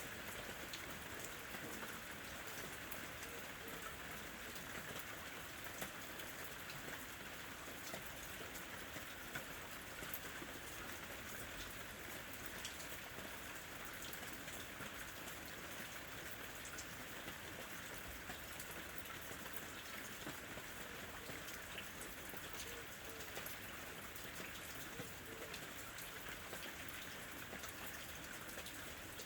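Steady rain falling, with many small drop ticks and patter on a surface.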